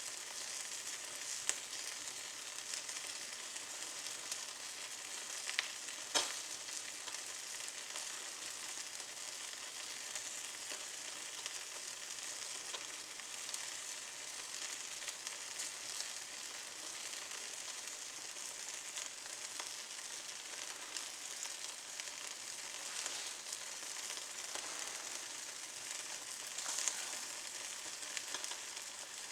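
Wood fire of small twigs burning in a fireplace: a steady fine crackle and hiss, with a few sharper pops, the loudest about six seconds in.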